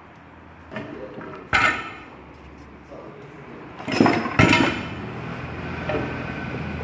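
Metal tools clanking and striking: a few sharp metallic hits that ring briefly, the loudest about one and a half seconds in and a pair about four seconds in.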